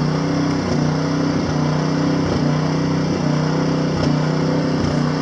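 Engine of a large 25-horsepower snowblower running steadily under load, its pitch briefly dipping several times as it works through packed, wind-driven snow.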